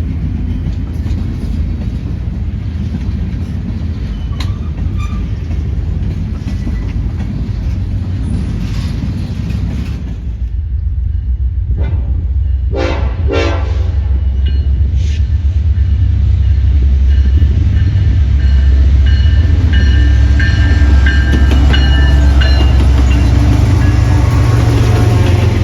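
A train rumbling past, growing louder from about halfway through, with short blasts of its horn about halfway in.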